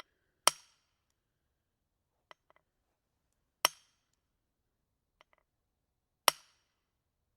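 A maul striking a wedge three times, about three seconds apart, each blow a sharp ringing clang. Faint light knocks come between the blows.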